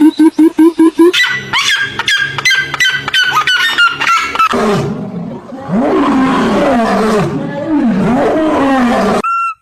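Animal calls one after another: a rapid run of short even calls, then a series of repeated calls that slide down in pitch, then a long rough roaring growl with the pitch swooping up and down, ending in a brief steady tone.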